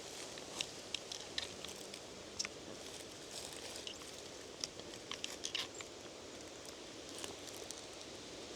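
Irregular crackling of footsteps in dry leaf litter, over a steady hiss of wind.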